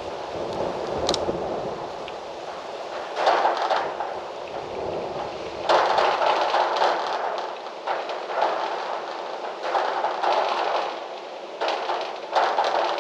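Gusty wind rustling through trees, the rustle swelling suddenly into several louder gusts. There is one sharp click about a second in.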